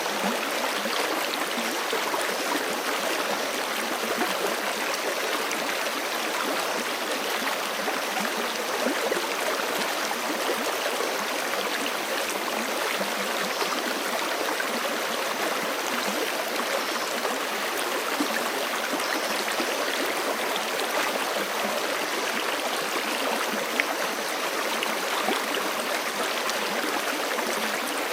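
Forest creek flowing steadily over rocks, a continuous rushing and gurgling of water with no breaks.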